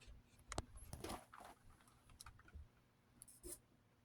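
Near silence broken by a few faint clicks and light knocks of handling, about half a second in, around a second in, and near the end.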